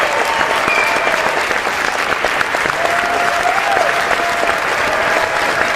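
Crowd applauding steadily, many hands clapping at once, with a few voices cheering above the clapping.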